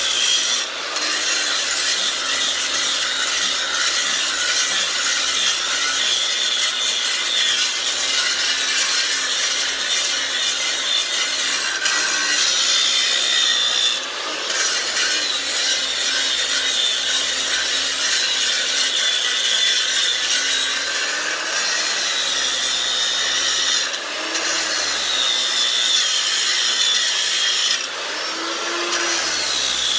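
Angle grinder cutting into a crack in a concrete foundation wall, grinding out an old soft patch. The motor runs steadily, its pitch sagging and recovering as the disc bites, with a few brief lulls.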